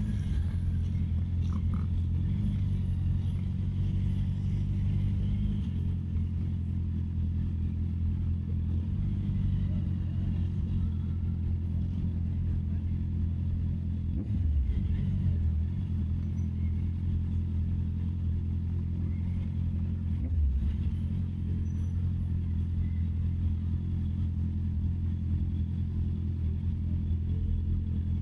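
Honda CB650R's inline-four engine running steadily under way, its note shifting a few times, with two brief dips and recoveries about halfway through and again about two-thirds of the way in. Wind on the microphone sits underneath.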